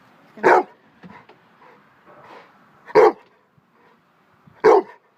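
A pet dog barking three times, single short barks spaced a couple of seconds apart.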